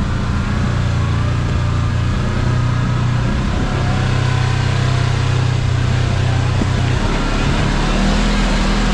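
Kawasaki KRX side-by-side's parallel-twin engine running steadily under way, its note shifting lower about seven seconds in.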